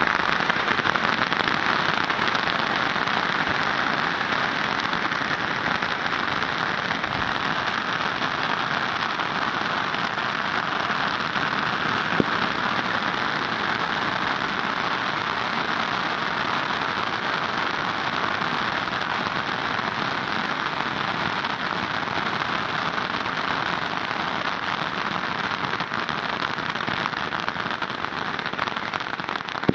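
A firework display crackling and hissing in a dense, steady wash that sounds much like rain, with one sharper pop about twelve seconds in.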